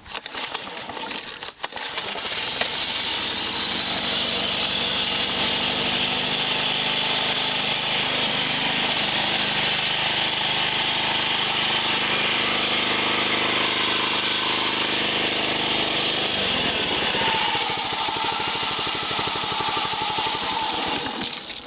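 Big snowblower's engine cold-started on choke with its electric starter, catching within the first two seconds and then running steadily. Its note changes about three-quarters of the way through.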